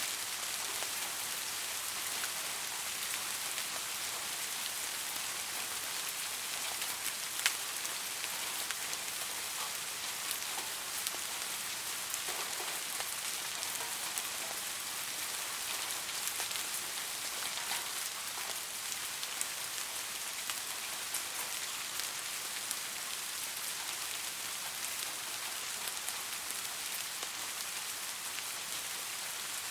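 Steady rain falling, a constant hiss with scattered sharper drop ticks, one a little louder about seven seconds in.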